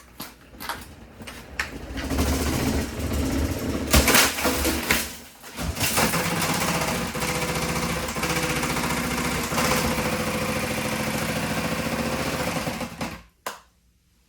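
Worn-out Lasko box fan with broken blades and a cracked back running at full speed, its motor humming under a loud, steady rattling clatter of broken blades hitting the housing. There are sharper knocks about four and six seconds in, and the noise cuts out near the end.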